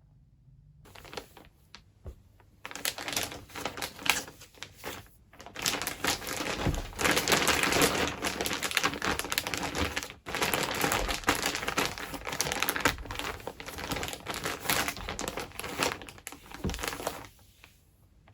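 Packing material crinkling and crumpling as it is handled, with many small clicks and knocks mixed in; it starts about a second in and stops near the end.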